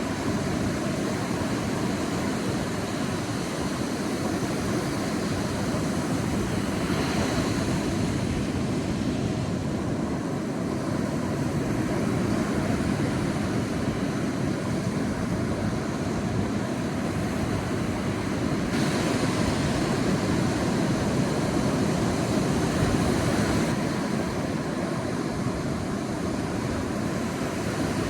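Sea surf washing on a beach: a steady rush of breaking waves, brightening twice as a wave washes in, the second wash lasting several seconds.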